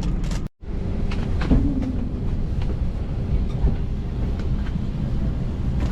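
Airbus A320 cabin noise while taxiing after landing: a steady low rumble of engines and wheels rolling on the taxiway, with a few light knocks. It cuts out briefly about half a second in.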